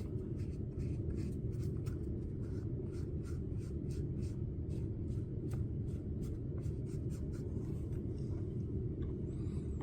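Repeated short scraping strokes, a few a second, as excess resin is wiped and scraped off the top of a silicone mold, over a steady low hum.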